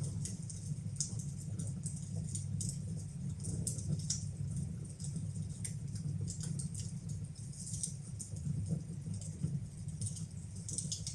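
Wood fire burning in a fireplace: irregular sharp crackles and small pops over a steady low rumble.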